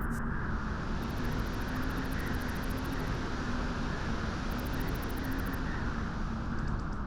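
Steady wind blowing at a beach: an even, rushing noise that holds at one level without gusts.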